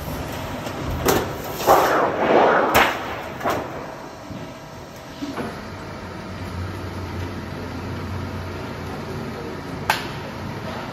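Factory machinery noise: a steady low hum with several sharp metal knocks and a louder rushing swell about two seconds in.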